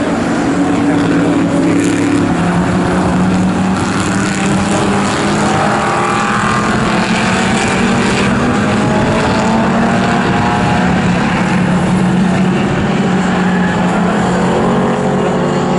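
Pre-1966 touring cars racing, several engines running hard at once, with engine notes climbing slowly in pitch through the second half as the cars accelerate.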